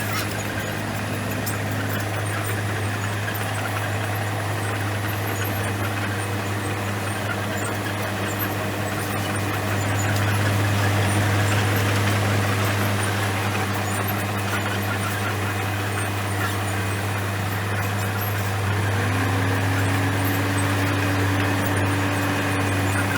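Komatsu bulldozer's diesel engine running steadily under work, its pitch stepping up a little about nineteen seconds in.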